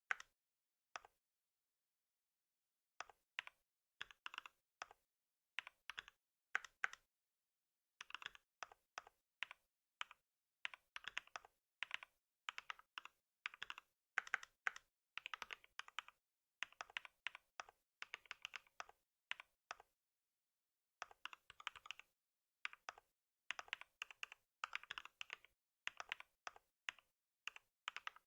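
Typing on a computer keyboard. A few separate keystrokes come first, then quick runs of key clicks broken by short pauses.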